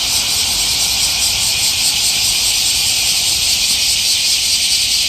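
Chorus of cicadas singing in the trees: a loud, steady, high-pitched buzz.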